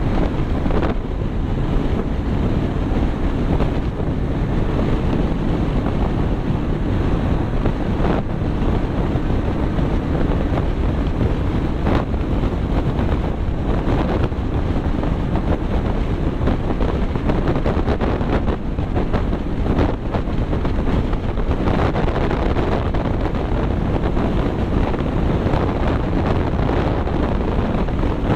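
Steady wind noise buffeting the microphone, loud and unbroken, as from travelling at road speed.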